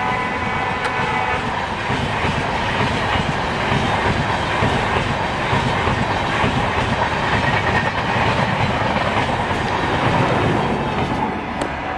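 Passenger train coaches rolling past close by at speed: a steady rumble with wheels clattering over the rail joints. A train horn dies away about a second in, and the noise eases near the end as the last coach, a generator car, goes by.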